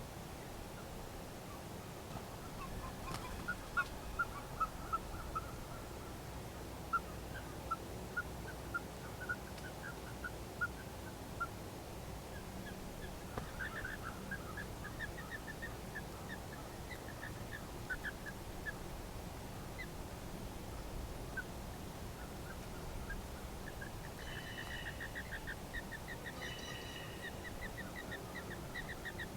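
A wild animal giving a long series of short, repeated call notes, about three or four a second, rising slightly in pitch. About three-quarters of the way through, the notes come faster and harsher.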